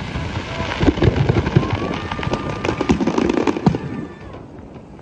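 Fireworks going off: a dense run of bangs, cracks and pops that thins out and drops in level about four seconds in.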